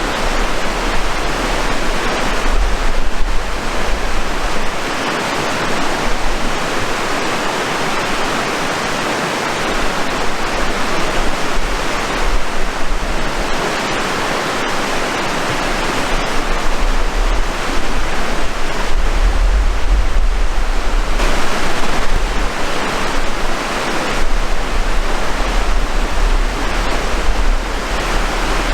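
Rushing water: a loud, steady rush that swells and eases over several seconds, with a low rumble underneath.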